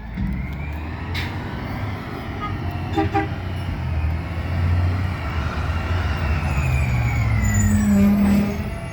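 Garbage truck's diesel engine running and revving, with a whine that rises and falls in pitch and a brief clank about three seconds in. It grows louder toward the end, then eases off.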